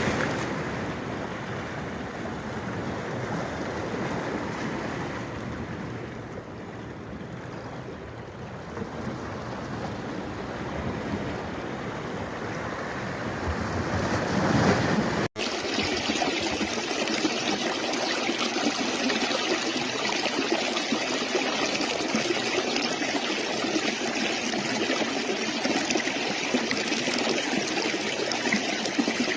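Running stream water, a steady rushing noise. About halfway through it cuts off abruptly and a different, brighter stretch of flowing stream takes over.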